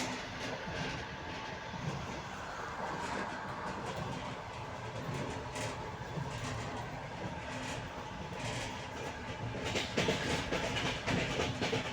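Passenger train running on the rails, heard from aboard, its wheels clattering over the rail joints. The clatter grows louder about ten seconds in.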